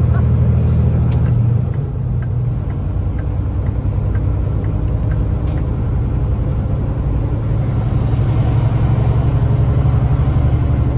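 Semi-truck's diesel engine running steadily under way, heard from inside the cab as a loud low drone with road noise. Its level drops slightly about two seconds in, and a few faint light ticks follow.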